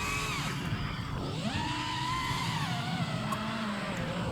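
FPV quadcopter motors whining, their pitch gliding with the throttle: it drops sharply about a second in, then climbs back and holds steady.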